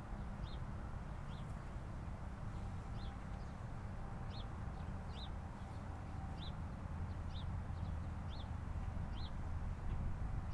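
A bird calling a short, sharp, high chirp about once a second, over a steady low rumble.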